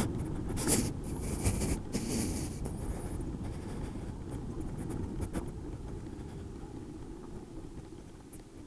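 Tyres of a near-silent Zero SR electric motorcycle rolling over dirt, with a cluster of scratchy crackles in the first couple of seconds, then a low rumble of tyres and wind that fades gradually.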